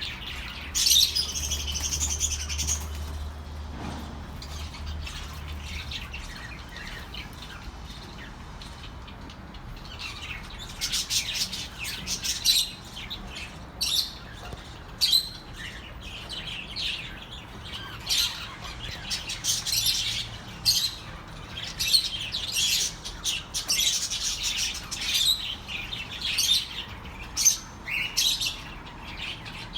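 A flock of budgerigars chattering, with rapid high chirps and occasional squawks. They are sparse for a few seconds, then much busier from about ten seconds in.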